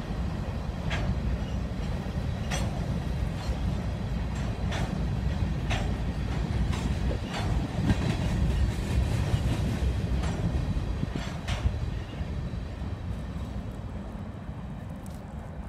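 Freight train's rock hopper cars rolling past: a steady low rumble with sharp wheel clicks over the rail joints roughly once a second, fading as the end of the train passes and moves away.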